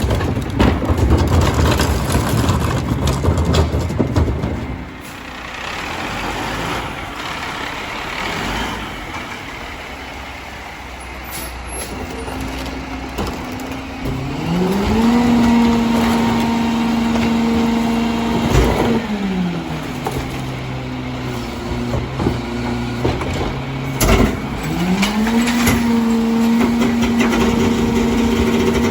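Garbage truck rear loader working: clattering and heavy rumble for the first few seconds, then the Mack LR's diesel engine twice rises to a held higher speed for several seconds and drops back as the Heil DuraPack 5000's hydraulic packer cycles, with a few short sharp air hisses.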